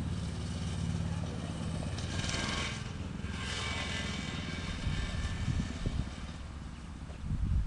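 Dirt bike engine running with a steady hum that fades out about two seconds in, followed by rushing noise and irregular low rumbles.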